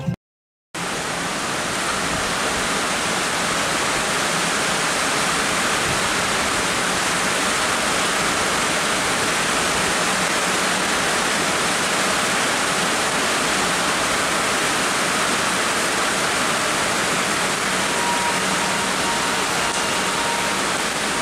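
Heavy rain pouring down in a dense, steady hiss, beginning about a second in.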